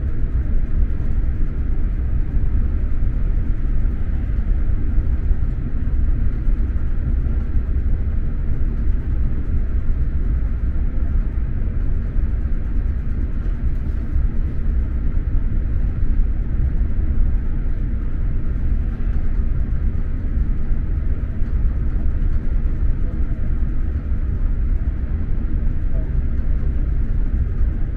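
SJ X2000 high-speed train running at speed, heard from inside the passenger car: a steady low rumble of wheels on the track with a fainter hiss above it.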